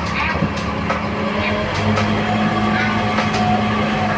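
Scania K230UB city bus running, heard from on board: a steady engine drone, with a faint whine that rises slightly in pitch from about halfway through.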